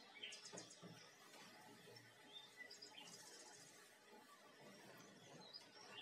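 Faint birdsong: scattered short high chirps, with a quick trill about three seconds in, over a faint steady hiss.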